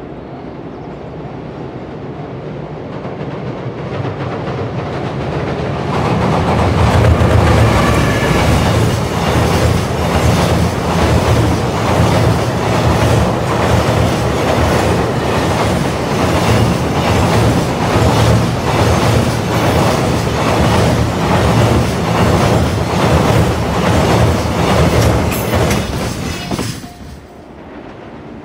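Electric-locomotive-hauled container freight train approaching and passing close on a steel girder bridge. A rumble builds over the first few seconds, then runs loud and steady with the wheels clattering rhythmically over the rail joints, and drops away sharply near the end.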